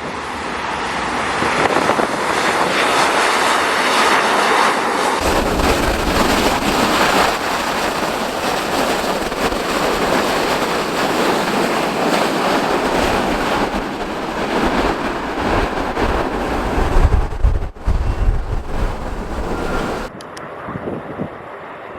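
Jet engines of an Airbus A330-300 on landing, a loud steady roar, with wind buffeting the microphone in heavy gusts. The roar ends abruptly near the end.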